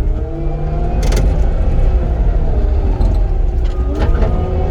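Cat 259D compact track loader's diesel engine running under load, its pitch dipping and recovering as the machine works, over a steady low rumble. A sharp clank comes about a second in and another near the end.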